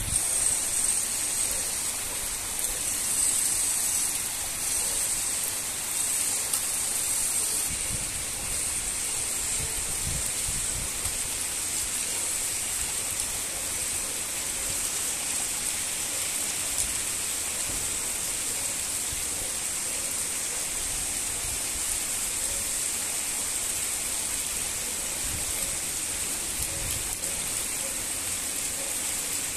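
Heavy rain falling steadily, an even hiss of drops hitting wet ground and puddles.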